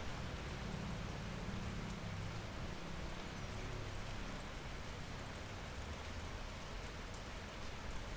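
Steady rain falling, an even hiss with faint scattered drop ticks over a low rumble.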